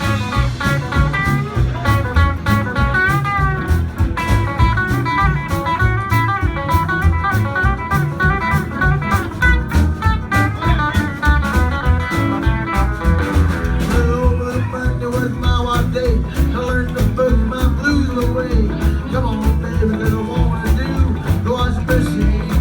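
A live band playing an instrumental break in a fast boogie number: lead guitar runs over a steady bass and drum beat, with the lead moving into a lower register about halfway through.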